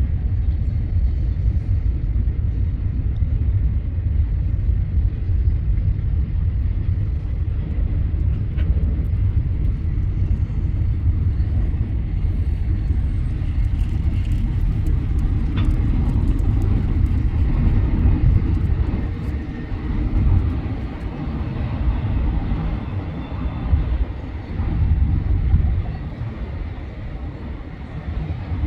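Freight train rolling past with a loud, continuous low rumble, easing off over the last few seconds as it moves away.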